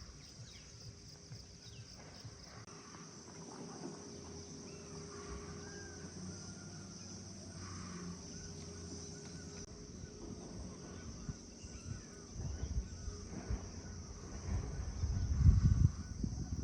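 Steady high-pitched drone of insects, with a few short bird chirps over it. Near the end, low rumbling knocks on the microphone become the loudest sound.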